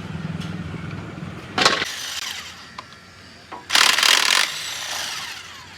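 Workshop power tool noise: a steady rattling run, a short sharp burst about a second and a half in, then a harsh burst lasting nearly a second about four seconds in.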